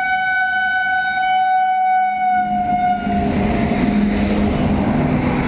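Indian railway locomotive horn sounding one long blast of about three seconds, its pitch dropping slightly at the end, followed by the noise of an express train passing at speed.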